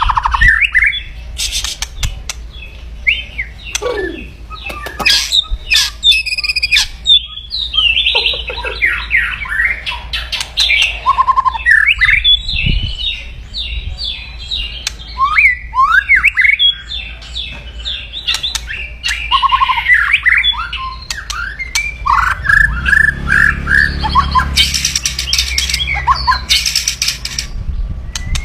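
White-rumped shama (murai batu) singing a loud, fast, varied song of whistled and sliding notes broken by harsh crackling rattles, the 'kretekan' of an aggressive bird.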